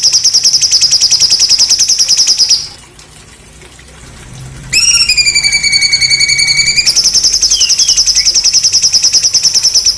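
A songbird's harsh, rapid-fire trill of about ten high buzzy notes a second, the rough 'tembakan' burst used as training song for cage birds. It breaks off about two and a half seconds in. Near the middle comes a loud whistled note that swoops up and then holds level for about two seconds, and then the fast trill starts again.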